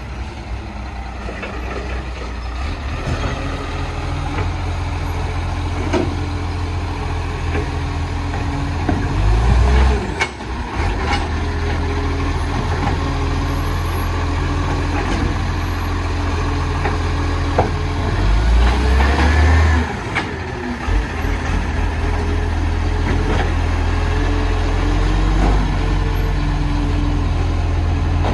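Garbage truck's diesel engine running, rising and falling in pitch a couple of times, with a few sharp knocks.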